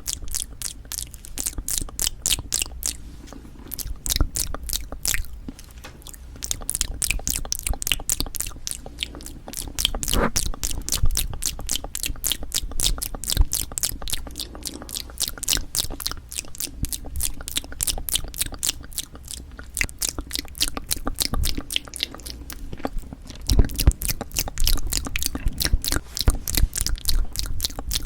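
Close-miked chewing of cup jelly: a dense run of wet mouth clicks, many per second, with a few louder bites.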